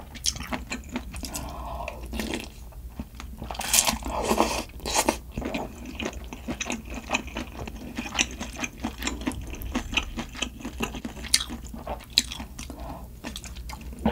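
Close-miked chewing and crunching of food, with many small irregular mouth clicks and crackles and a few louder bursts about four to five seconds in.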